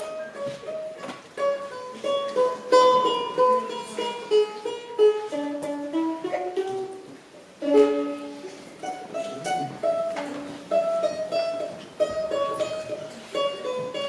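Balalaika playing a quick melody of plucked notes.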